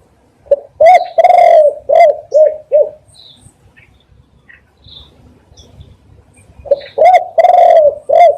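Spotted dove cooing: two loud phrases a few seconds apart, each a couple of short coos, one drawn-out coo, then three quick shorter coos. Faint chirps of other small birds sound between the phrases.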